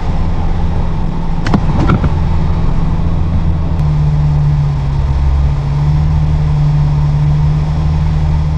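Kenmeri Nissan Skyline running steadily on the move: a loud, even low drone with a steady hum, and a couple of sharp clicks about a second and a half to two seconds in.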